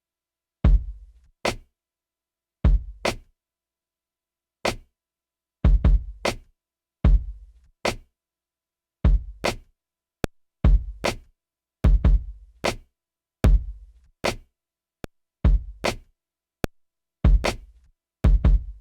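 Drum pattern played on an Akai MPC Live 3 sampler. It starts about a second in: a slow, sparse beat of deep kick-drum thumps and sharp, snappy hits, each cut off dry with silence between, filling in with more hits near the end.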